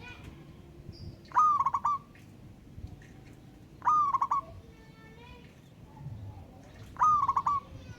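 Zebra dove (perkutut) cooing: three loud phrases a couple of seconds apart, each a sliding opening note followed by a quick stuttering run of short coos. Fainter calls from other birds sound in between.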